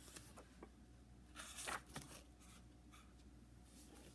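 Faint rustle of paper and card as the pages of a handmade junk journal are handled and turned, with a slightly louder brush about one and a half seconds in.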